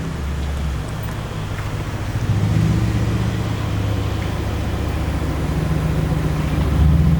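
Mercedes-AMG C63 S engine running, a steady low-pitched drone with a rapid pulsing beat.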